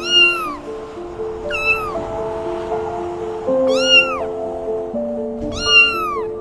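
Four short cat meows, about one every one and a half to two seconds, each rising and then falling in pitch, over background music of held notes.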